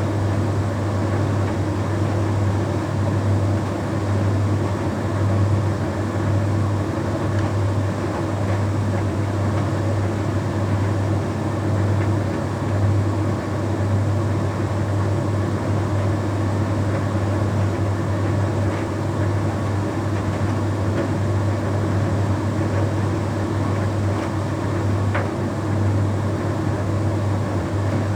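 Bosch Series 6 heat pump tumble dryer running mid-cycle on its Shirts programme, with a steady low hum and no change in level.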